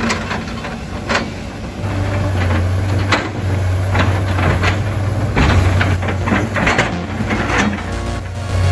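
A heavy machine's engine running steadily, with a string of sharp, irregular knocks and clanks.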